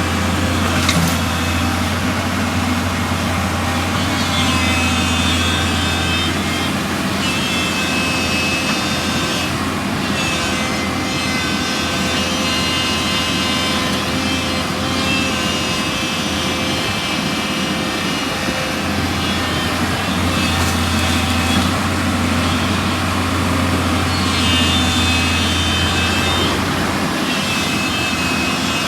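Hyundai Robex 210 excavator running with a steady low diesel hum, overlaid several times by a high whine that rises in and fades out for a few seconds at a time.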